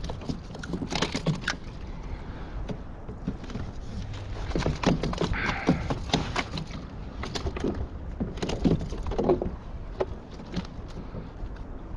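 Irregular clicks, knocks and rustles of fishing tackle being handled on a kayak while a small fish is landed.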